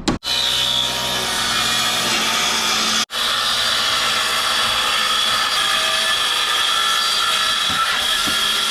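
Power saw cutting through wood siding, running with a steady high whine and broken by two brief gaps, one just after the start and one about three seconds in.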